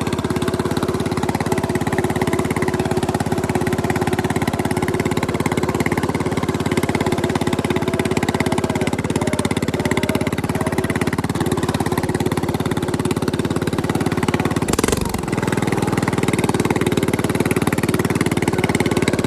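Bolens mower engine running steadily through a homemade exhaust. There is a brief sharp knock with a short dip in the engine note about fifteen seconds in.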